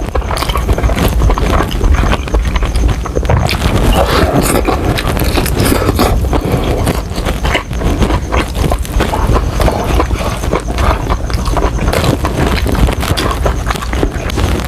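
Close-miked chewing and crunching of Jollibee fried chicken: dense, irregular crackles and wet mouth clicks from bites of the crispy breading, going on without a break.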